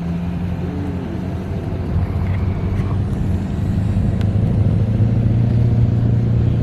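Diesel pickup truck engine running steadily at a low idle, growing louder over the few seconds.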